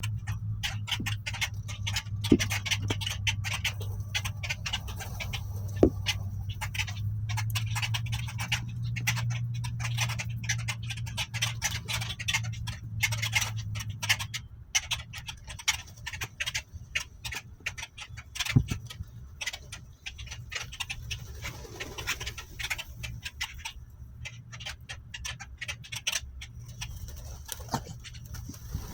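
Wild birds making dense, rapid, clicky chirps and chatter. A low steady hum runs underneath and stops about halfway through.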